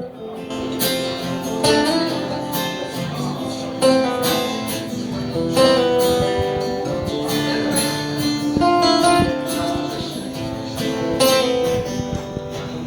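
Acoustic guitar playing a slow instrumental intro of chords, each one struck and left to ring.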